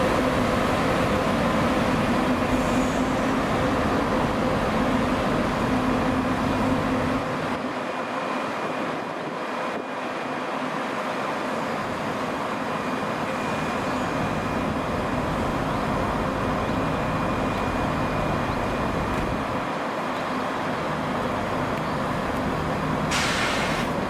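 Scotrail Class 158 and Class 170 diesel multiple units arriving, their diesel engines running with a steady hum that eases about eight seconds in. A short hiss comes near the end.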